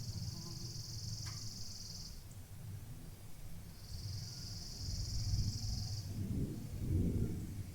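Distant thunder rumbling low and continuously, swelling toward the end as a louder roll builds. Above it, a high, steady insect buzz sounds twice, each time for about two seconds.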